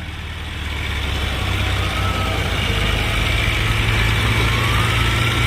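Diesel tractor engines running hard under heavy pulling load in a tractor tug-of-war, a steady low drone that grows louder over the first second or two and then holds.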